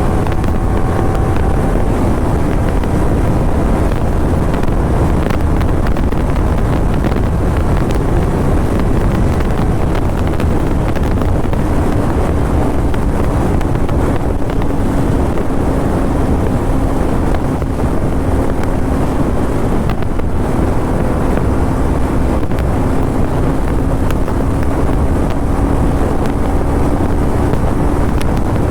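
Kawasaki Ninja 300's parallel-twin engine and exhaust running at a steady cruise, its note drifting slowly lower. Heavy wind rush on the microphone runs under it.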